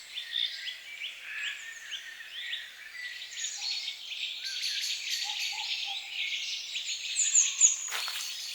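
Several songbirds singing at once, with dense overlapping chirps and short notes. A brief noisy rustle sounds near the end.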